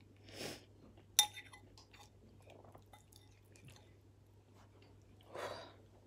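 Close-mouthed chewing of a mouthful of food, with soft wet clicks throughout. About a second in comes a single sharp clink of a metal spoon against the bowl, and a breath sounds near the start and again near the end.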